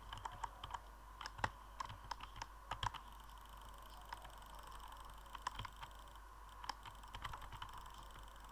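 Quick, irregular clicks in two runs: a dense run over the first three seconds, then another from about five to eight seconds in.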